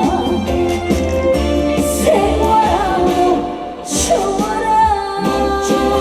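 Female trot singer singing live with band accompaniment, holding long notes with vibrato over a steady bass. The sound briefly dips just before the middle of the clip.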